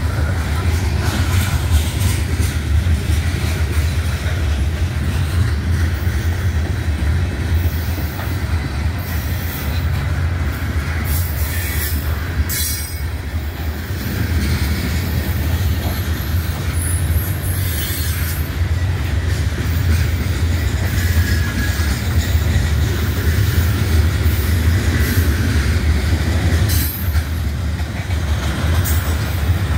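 A BNSF coal train's cars roll steadily past with a low, continuous rumble. Now and then there are bouts of high wheel squeal and clicks.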